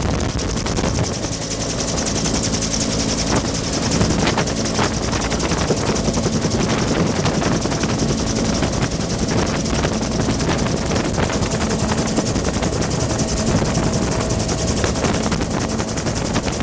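Bell UH-1 Huey helicopter in flight: its two-blade main rotor gives a loud, steady, rapid beat over the engine's running noise.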